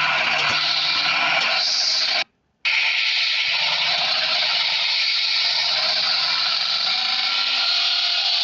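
An engine running steadily with a dense, noisy sound, cut by a brief total dropout a little over two seconds in.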